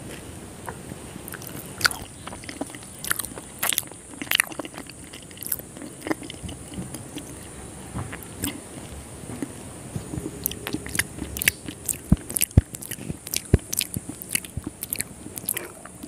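Close-miked wet chewing and lip-smacking of soft, syrup-soaked rasgulla-type sweets, with many small sharp mouth clicks spread through.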